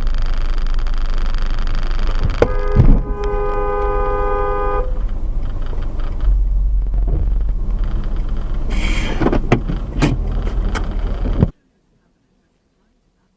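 Steady road and engine noise inside a moving car, with a car horn sounding for about two seconds a couple of seconds in and a thump as it starts. The sound cuts off abruptly near the end.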